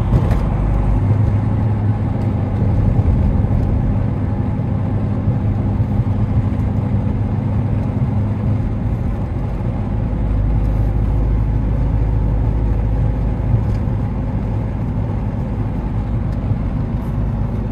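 Dodge Charger SRT's V8 engine running at a steady cruise, heard from inside the cabin: a constant low rumble mixed with road noise, with no revving.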